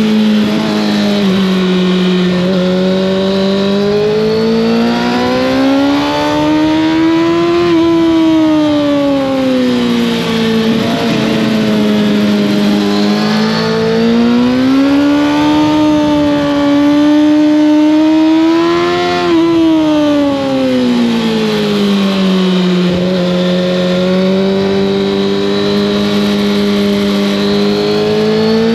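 Kawasaki ZX-6R inline-four sport bike engine through an Arrow exhaust, heard onboard while riding. The engine note climbs and eases off in slow swells several times, running continuously and loud.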